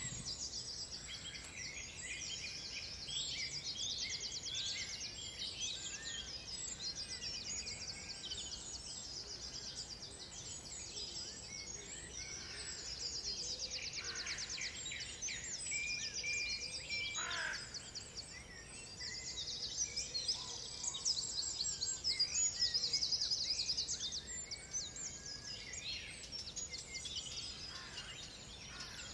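Several songbirds singing at once, a dense mix of fast trills and chirps with a few clearer whistled notes, over a steady outdoor hiss.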